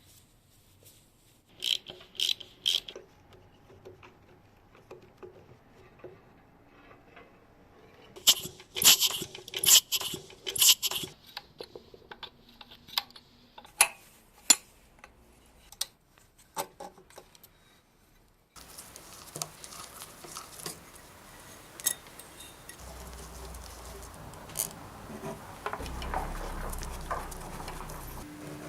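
Metal parts and hand tools being handled: bursts of sharp clicks and clinks, loudest about two seconds in and again around eight to eleven seconds, then a sudden change to a steadier background noise with occasional clicks.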